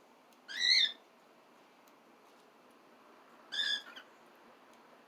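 Cockatiel giving two wavering contact calls, each about half a second long: one near the start and a quieter one about three and a half seconds in.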